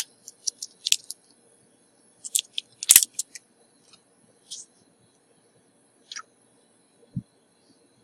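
Irregular sharp clicks and light metallic taps of small hand tools such as tweezers handled on a workbench, about ten in all, the loudest about three seconds in, over a faint steady high-pitched whine.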